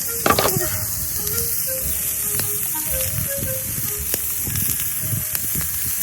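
Meat sizzling on a fire-pit grill, a steady hiss with small crackles, under light background music carrying a simple melody of single notes. A brief falling squeak sounds about a third of a second in.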